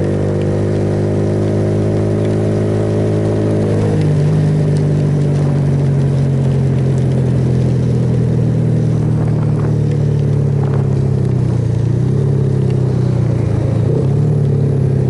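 Suzuki Yes 160cc single-cylinder motorcycle engine running under way, its note rising slightly and then changing pitch about four seconds in, over steady wind and road noise.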